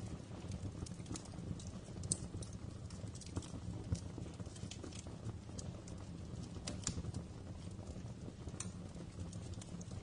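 Fireplace fire crackling: irregular sharp pops and snaps, a few louder ones about two and four seconds in, over a low steady rumble.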